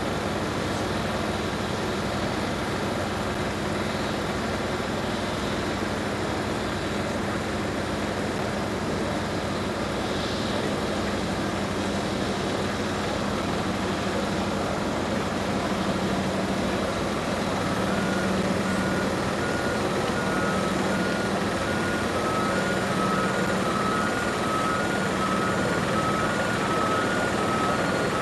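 Steady jet engine noise from an airliner on the ground, with a constant low hum. About two-thirds of the way in, a two-note beeping starts, alternating high and low.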